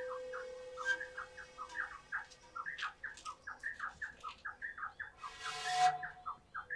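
A bird chirping in a rapid run of short, repeated calls, several a second. Under it, a steady tone fades out over the first two seconds, and a brief louder sound comes about five and a half seconds in.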